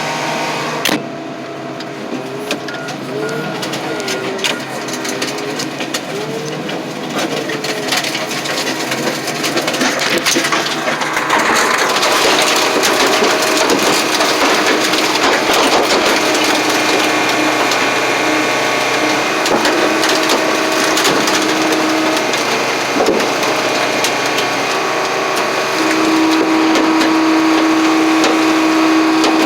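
Hydraulic car crusher working under load on steel truck frames: a steady hydraulic hum with many sharp cracks and creaks of the frames bending and breaking, getting louder and busier partway through. The hum steps up to a louder steady tone near the end.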